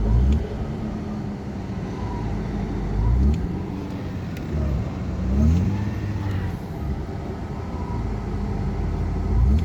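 Warmed-up car engine revved briefly several times, each time the revs sinking back slowly rather than dropping straight to idle: hanging revs.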